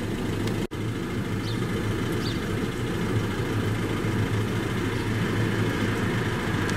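A motor vehicle engine idling with a steady low hum. It drops out for an instant under a second in.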